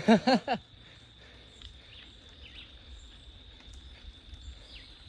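A brief voice sound in the first half-second, then a quiet outdoor background with a steady high insect drone and a few faint bird chirps.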